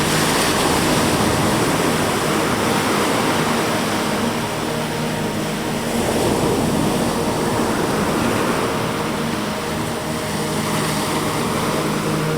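Ocean waves washing onto a beach, the surf swelling and easing every few seconds, under an ambient music track with long held low notes.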